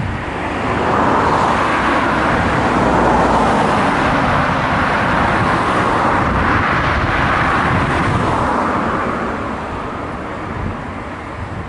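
Locomotive-hauled passenger train passing along the line, a steady rushing of wheels on rail that swells over the first couple of seconds, holds, and fades in the last few seconds, with wind buffeting the microphone underneath.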